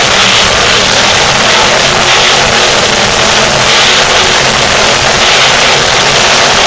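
Monster truck engine revving hard, loud and continuous, with the throttle swelling and easing unevenly.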